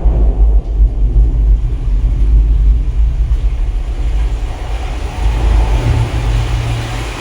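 Samsung Q990C soundbar and subwoofer playing a Dolby Atmos demo soundtrack: a loud, deep bass rumble, with a rushing noise building higher up in the last couple of seconds.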